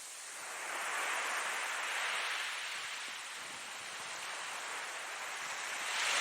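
Ocean waves breaking and washing on the shore, a steady hiss of surf that swells with one wave early on and a next wave building near the end.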